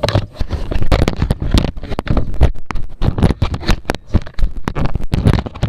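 Rapid, irregular knocking and scraping right against the body of a small waterproof camera as it is grabbed, shaken and tossed about, several knocks a second.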